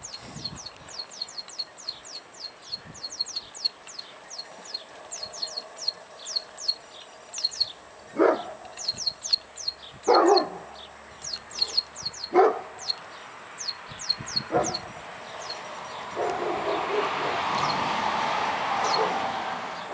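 Four short, loud animal calls about two seconds apart, over a steady run of rapid, high, falling chirps. A rustling noise swells near the end.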